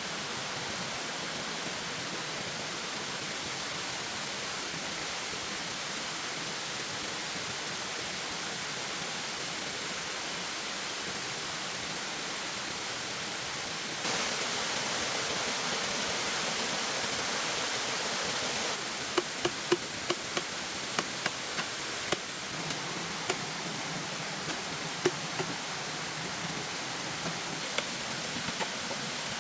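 Steady hiss of rain. Past the middle it grows louder and brighter for about five seconds, then drops back, with scattered sharp ticks and taps.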